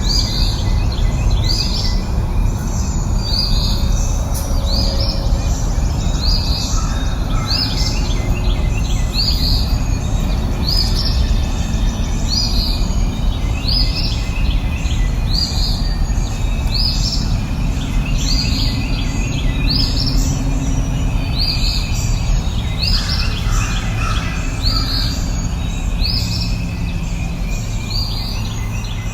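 A songbird repeating a short, high, downward-sweeping call about once a second, steadily, over a constant low rushing background noise.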